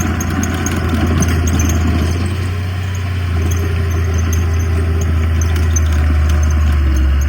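Heavy diesel engine of earthmoving equipment running steadily, a deep continuous hum with faint scattered high-pitched ticks over it.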